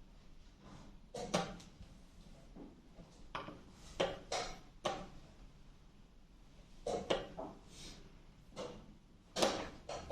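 Short knocks and clacks at irregular intervals, a dozen or so, several in quick pairs.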